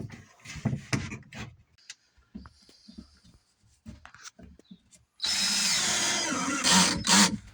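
A few knocks and handling clatter, then a power drill runs steadily for about a second and a half with a high whine. It follows with two short bursts of the trigger near the end.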